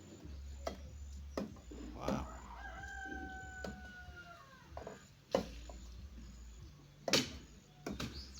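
A bird call, one long call of about two seconds that drifts slightly down in pitch, with a few sharp knocks and clicks around it.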